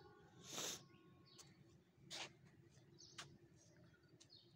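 Birds calling faintly outdoors: three short calls spaced about a second apart, with a few small high chirps between them, over a low steady background.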